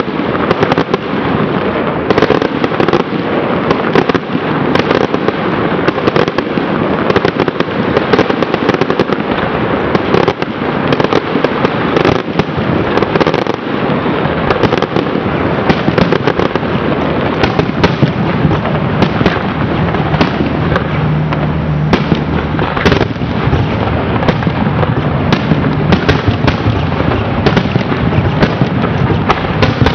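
Aerial fireworks shells bursting in rapid succession, making a dense, continuous barrage of bangs and crackling with no let-up.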